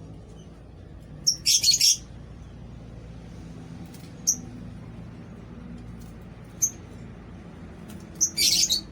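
Lovebirds chirping in short, high, loud bursts: a quick cluster of chirps about a second and a half in, single short chirps around four and six and a half seconds, and another cluster near the end, over a steady low hum.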